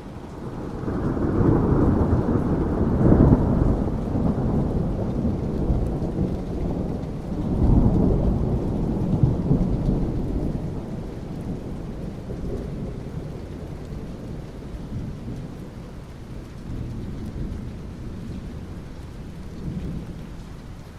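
Long roll of thunder over steady rain: the rumble builds in the first second, swells twice in the first half, then slowly dies away, leaving the hiss of rain.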